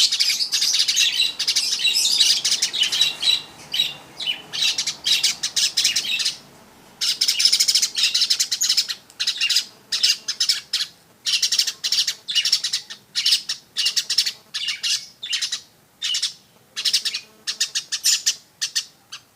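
Manyar weaver bird singing persistently: fast, dry chattering runs of short high notes in phrases of about a second, with brief pauses between them and one longer pause about six seconds in.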